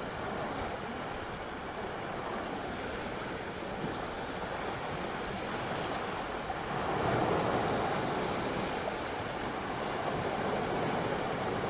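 Sea waves washing onto the shore in a steady rush, swelling louder for a few seconds just past the middle as a wave comes in.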